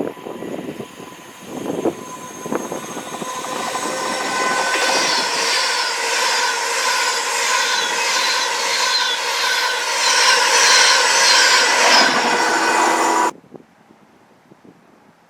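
A train passing close by: the rushing noise builds over a few seconds to a loud, steady roar with several steady whining tones over it, then cuts off abruptly near the end.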